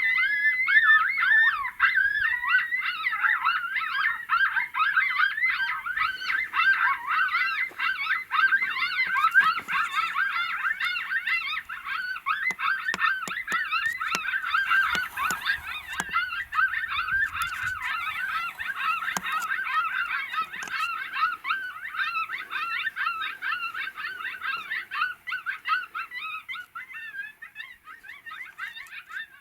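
A chorus of coyote yips and howls, many wavering high calls overlapping without a break, growing fainter near the end.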